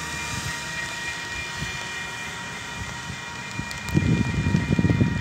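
Steady drone with a few held whining tones from an approaching diesel freight train, still out of sight. From about four seconds in, irregular low buffeting from wind on the microphone becomes the loudest sound.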